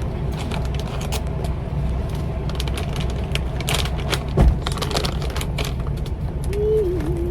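Cookware clicking and clattering as a pot of rice water is tended, with a louder knock about four and a half seconds in, over a steady low rumble.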